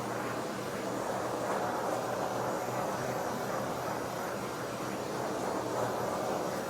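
Handheld gas torch flame blowing steadily, heating a wood-grain veneer on a model roof so that its adhesive sticks.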